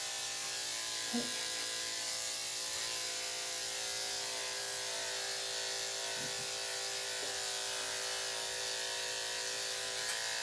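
Electric dog grooming clippers with a number 7 blade running steadily, a constant buzzing hum as they trim a dog's coat.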